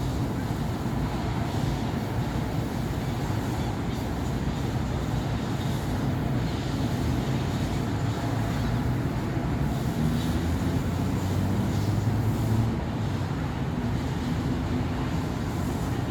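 Continuous city traffic on a busy avenue: cars and buses passing, with engine hum and tyre noise. One engine's hum grows louder about ten seconds in and drops away a few seconds later.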